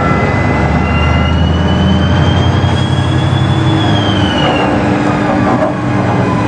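Heavy machinery unloading logs from a ship: an engine running steadily with a low hum. A high whine comes in about a second in, rises slowly, then drops and fades out just before five seconds in.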